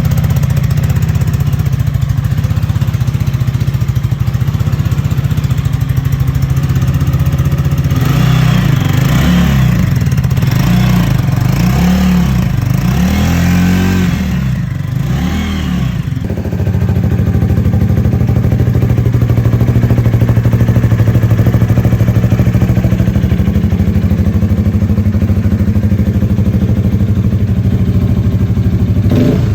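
Vitacci XMT 250 motorcycle engine running at idle through its exhaust, blipped up and down several times from about 8 to 16 seconds in, then settling back to a steady idle.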